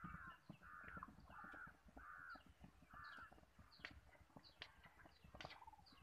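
Faint bird calls, five in a row about two thirds of a second apart over the first three seconds, with faint hoofbeats from a ridden horse moving at a fast gait.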